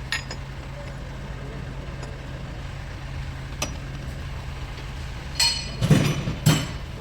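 Volkswagen Polo engine idling steadily, with a few light clicks and two louder knocks near the end.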